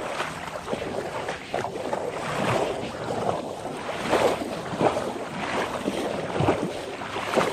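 Floodwater sloshing and splashing, with wind on the microphone.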